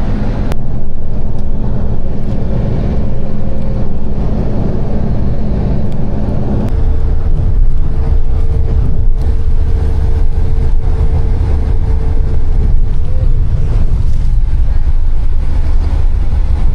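Road vehicle running, heard from inside: a steady low engine and road rumble, its hum stepping up in pitch about seven seconds in.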